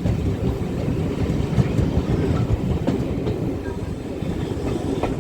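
Steam train hauled by GWR Manor-class 4-6-0 locomotive 7828 Odney Manor running along the line: a steady low rumble, with the wheels clicking sharply over rail joints a few times.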